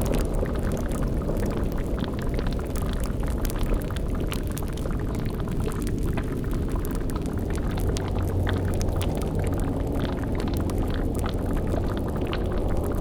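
Sound-design ambience of a bubbling cauldron, with many quick irregular pops and crackles over a steady low rumbling drone.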